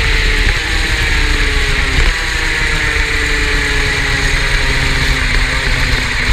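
Superkart's two-stroke engine heard onboard, its pitch falling steadily as it comes off the throttle, with a brief break about two seconds in before it falls again.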